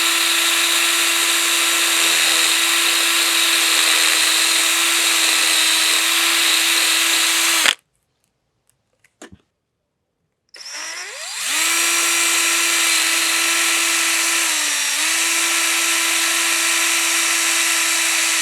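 Power drill boring out a broken bolt in an outboard engine, not yet through the bolt. It runs steadily for about eight seconds and stops. About ten seconds in it spins up again and runs to the end, its pitch sagging briefly under load partway through the second run.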